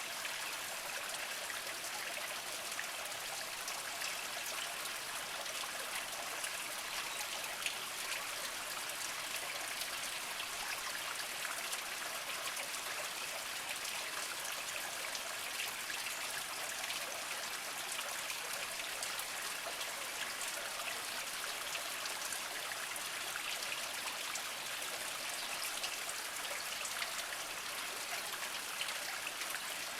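A small mountain spring trickling and splashing over mossy rocks: a steady watery hiss with many tiny drips and splashes.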